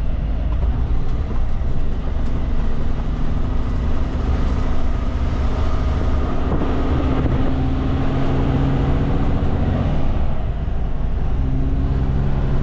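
Kenworth K200 road train's Cummins diesel engine running steadily under way at low speed, easing off briefly about ten seconds in before pulling again.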